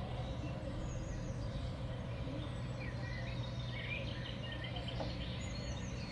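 Small songbirds giving short chirps, with a quick rattling run of repeated notes in the middle, over a steady low background rumble.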